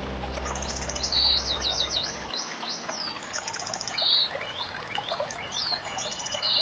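Several songbirds chirping, with quick whistled sweeps and trills, over a steady background hiss. A low held drone from the soft background music cuts off about two seconds in.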